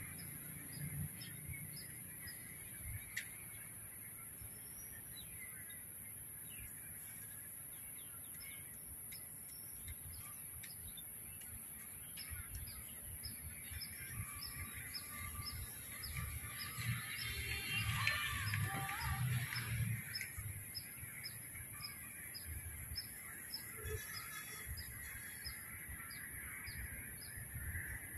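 Birds calling outdoors, with a high chirp repeated about twice a second over a steady high hiss. Calls get louder and busier for a few seconds past the middle.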